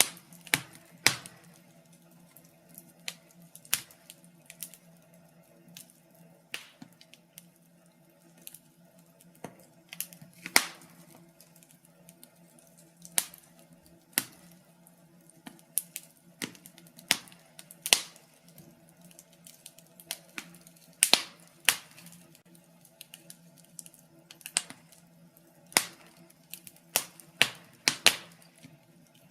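Wood fire burning in a fireplace, crackling with irregular sharp pops, some much louder than others, over a faint steady low hum.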